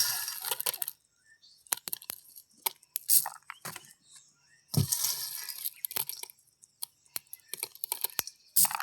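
Handling noises from hand work: a scatter of sharp clicks and knocks, with two noisy scraping bursts of about a second each, one at the start and one about five seconds in.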